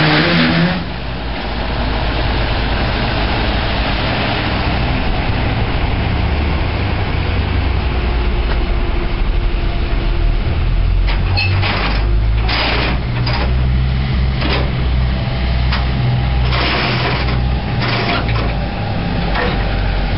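Diesel cog railway railcar running as it approaches along the summit track, a steady low rumble with a faint engine tone, under heavy noise. Short hissy bursts come and go in the second half.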